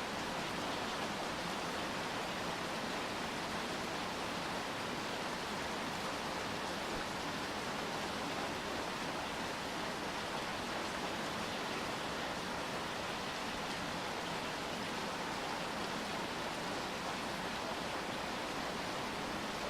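Steady rainfall, an even hiss of rain with no separate drops or other events standing out.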